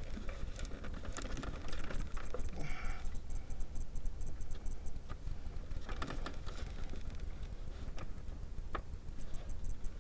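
Light scattered clicks and scrapes of hands fitting a small metal nut onto a stud in a car's engine bay, with a sharper click near the end.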